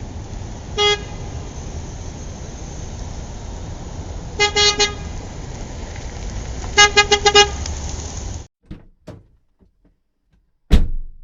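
Car horn honking over a steady traffic rumble: one short toot, then three quick toots, then a rapid run of five, before the street noise cuts off suddenly. A single sharp bang comes near the end.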